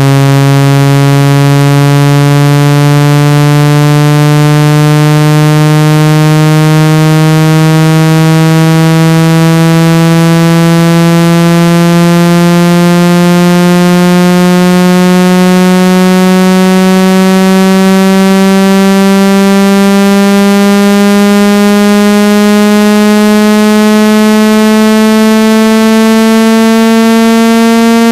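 Synthesized water-ejection tone for clearing water from a phone or earphone speaker: one loud, steady, buzzy tone that glides slowly upward in pitch, with no break.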